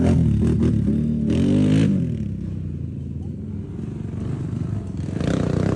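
Off-road race engines revving on the track, rising in pitch twice in the first two seconds, dropping away, then building again near the end.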